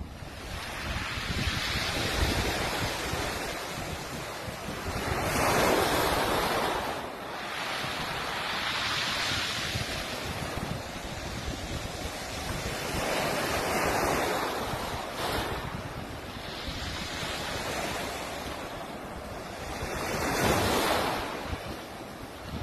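Sea waves breaking and washing onto a beach, the surf swelling and falling away about five times, with wind buffeting the microphone.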